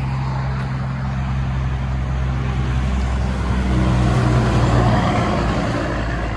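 Semi truck's diesel engine passing close by, a steady low drone whose pitch shifts about three seconds in, loudest around five seconds in, then easing off.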